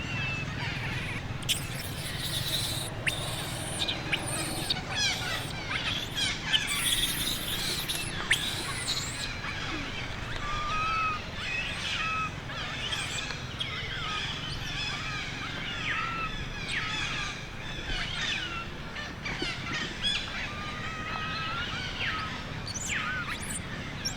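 Many short high-pitched chirping calls overlapping one another, some gliding up or down in pitch, with a few sharp clicks in the first half.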